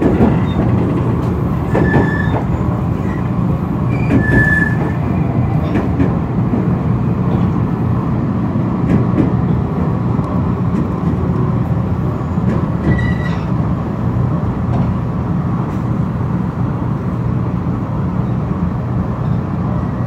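Running noise of an express electric train heard inside the carriage: a steady rumble as the train slows into a station, with a few short high squeals about two seconds in, again after four seconds, and once more around the middle.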